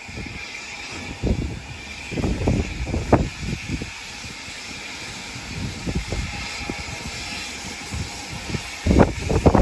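Gusty wind buffeting the microphone in irregular low rumbles, strongest about two to three seconds in and again near the end, over a steady high hiss.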